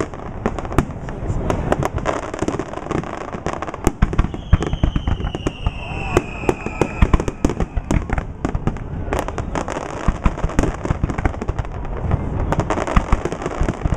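Fireworks display: a rapid, continuous barrage of bangs and crackling. From about four and a half to seven seconds in, a whistle falls steadily in pitch.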